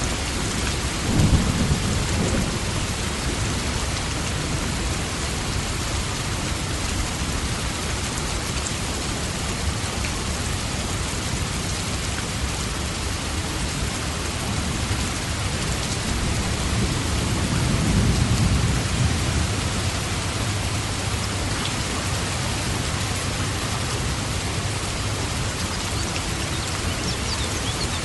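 Steady heavy rain, with two rolls of thunder: one breaking sharply about a second in, and a longer, deeper rumble about two-thirds of the way through.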